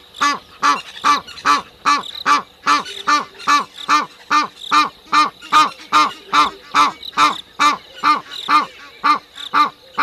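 A bird calling over and over in a steady run of short, harsh, pitched calls, about two and a half a second, with a faint steady high insect tone behind.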